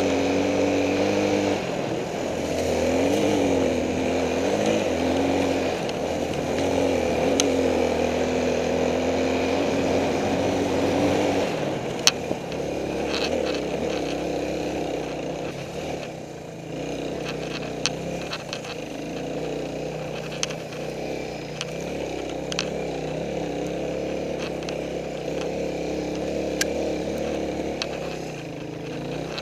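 Suzuki DR350's single-cylinder four-stroke engine running under changing throttle off-road, its pitch rising and falling. About twelve seconds in, the engine note drops lower, and scattered sharp clicks and knocks follow.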